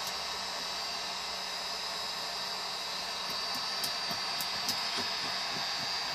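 Heat gun blowing steadily with a faint high whine, with a few light ticks in the second half.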